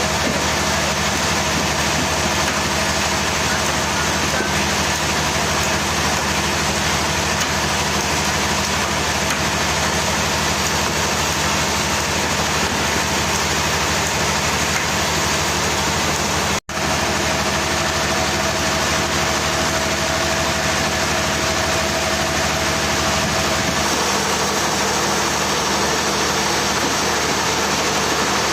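An engine running steadily with a constant hum. It cuts out for an instant about two-thirds of the way through, then carries on.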